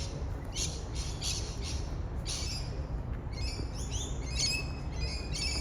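Small birds chirping in short repeated calls that grow busier and more elaborate about halfway through, over a low, steady background rumble.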